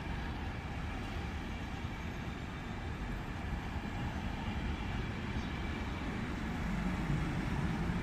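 Train running past with a steady low rumble that grows a little louder near the end.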